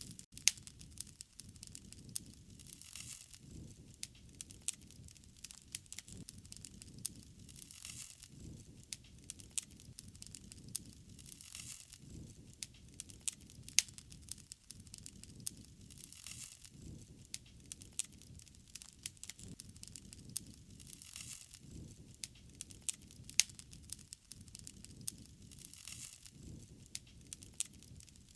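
Wood fire burning, crackling with frequent sharp, irregular pops over a low rumble of flame that swells every few seconds.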